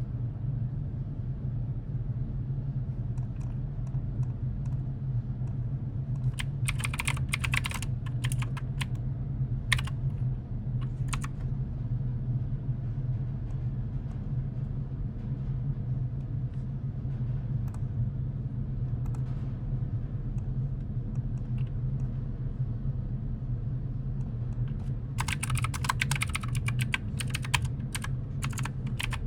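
Computer keyboard typing in short runs of key clicks, a burst about six seconds in, a couple of strokes near ten seconds and another run near the end. A steady low hum sits underneath throughout.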